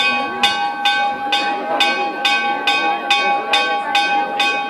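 The chapel bell of the Ermita de Santa Rosalía rung in a rapid festive repique, struck about three times a second, each stroke ringing on into the next. Crowd voices murmur underneath.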